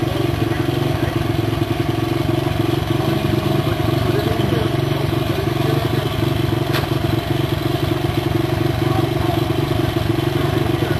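Dirt bike engine running steadily at an even, unchanging speed.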